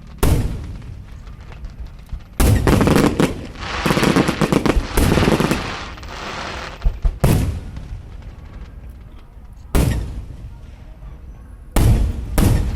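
Aerial fireworks bursting with sharp bangs. Two stretches of rapid crackling reports come about two and a half seconds in and again from about four to six seconds, then single loud bursts every couple of seconds.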